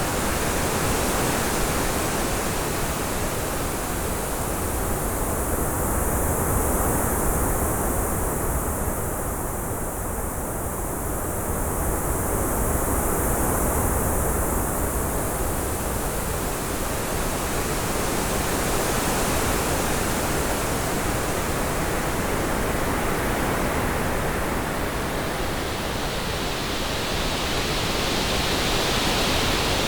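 Synthetic orange noise, an even, steady hiss with a slow wind-like swirl from its 3D panning. Its upper, brighter layer drops away for about ten seconds in the first half and swells back, strongest near the end.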